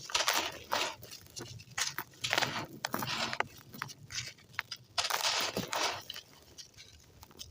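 Dry clumps of gritty red sand crumbled by hand: short bursts of crunching and crackling with sharp clicks, separated by brief pauses.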